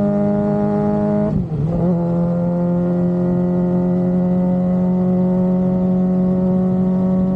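Suzuki GSX-R750 inline-four engine running steadily at cruising speed, its note rising slightly, then dipping briefly about a second and a half in before settling at a slightly lower, steady pitch.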